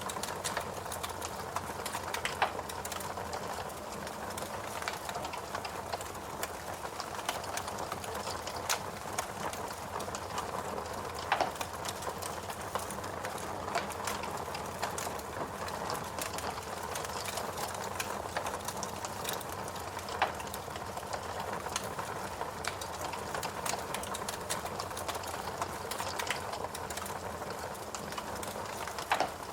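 Fireplace crackling: a steady, dense run of small crackles over a soft constant background, with a louder pop about every nine seconds.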